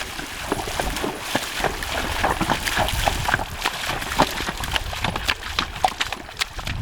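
A shod horse walking, its hooves clopping in an uneven rhythm, with wind rumbling on the microphone.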